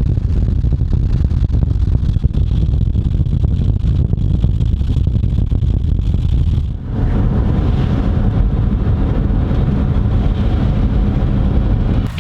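A vehicle driving, with a loud, steady low rumble of road and engine noise and a brief dip about seven seconds in.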